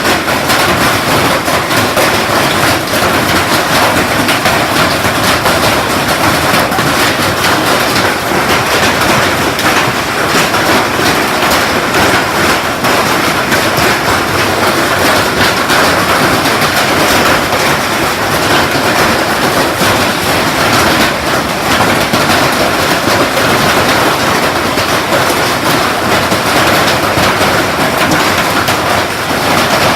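Hailstones pelting down hard: a loud, dense, unbroken clatter of countless small impacts.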